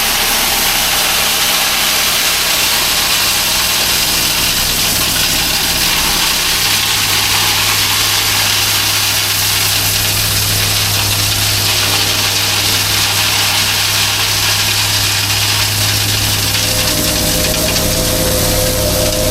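Gas-engine plate compactor (tamper) running and vibrating as it compacts a soft driveway sub-base, a steady engine hum under a loud hiss, with a higher steady whine joining near the end.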